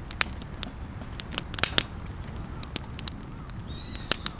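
Wood campfire crackling, with irregular sharp pops and snaps, several close together about a second and a half in.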